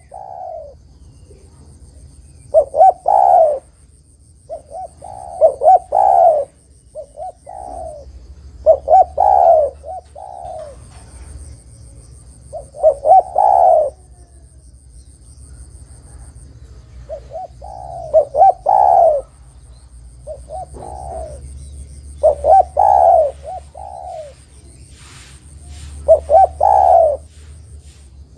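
Spotted dove cooing: a repeated phrase of several short coos ending in a longer rolling note, sung about every two to three seconds.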